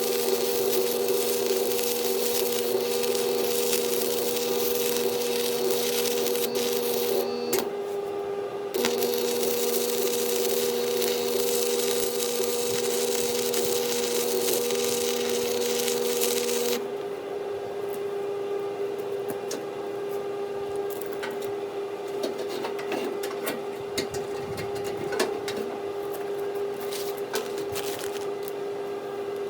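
Stick-welding arc crackling and hissing in two runs of about seven to eight seconds each, with a short break between them and the welder humming under load. The arc stops after about seventeen seconds, leaving a steady hum with scattered light clicks and taps.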